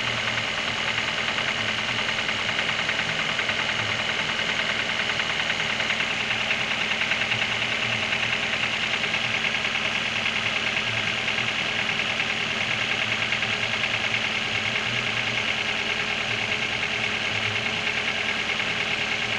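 Toyota 7A inline-four petrol engine idling with a rapid, steady knock from inside the engine: the engine knock being shown for repair.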